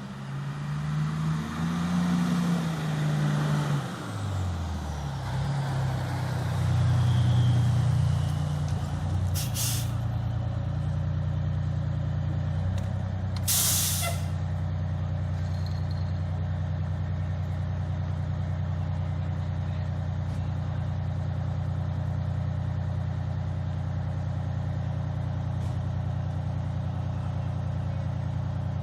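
Fire truck's diesel engine pulling up, its pitch rising and falling for the first several seconds. Air brakes hiss twice, at about ten and fourteen seconds in, and the engine then settles into a steady idle.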